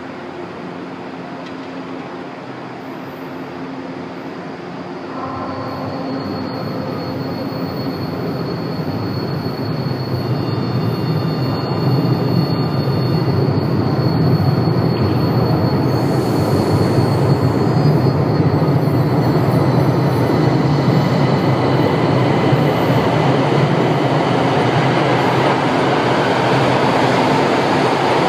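São Paulo Metro Line 2 train running, its rumble getting louder about five seconds in and again around ten seconds in, then holding steady, with thin high wheel squeal above it.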